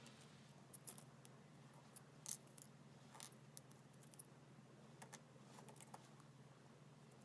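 Faint, scattered clicks and light taps, like small hard parts being handled and set down, over a low steady hum.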